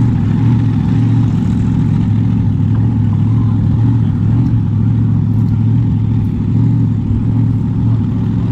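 Supercharged 540 cubic inch big block Chevy V8 in a drag car, running at a steady idle with a loud, deep engine note.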